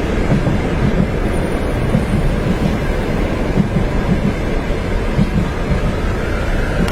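Train running on rails: a steady, loud rumble with irregular low knocks from the track.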